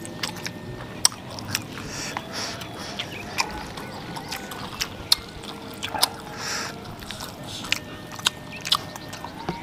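A person chewing a mouthful of food, with sharp wet mouth clicks at irregular intervals.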